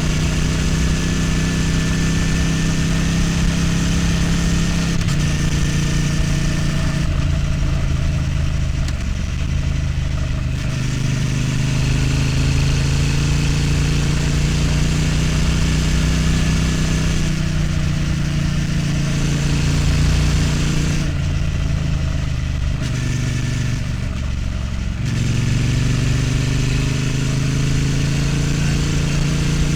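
Triumph Street Twin's 900 cc parallel-twin engine running under way, heard from the bike. The engine note falls away several times as the throttle is eased off, then picks up again.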